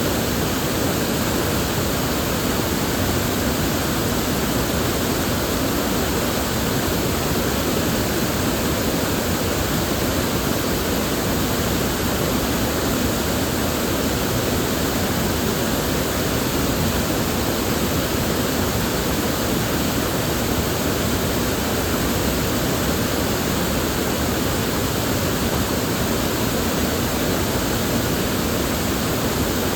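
River water flowing steadily, a constant full rushing sound with no breaks or single events.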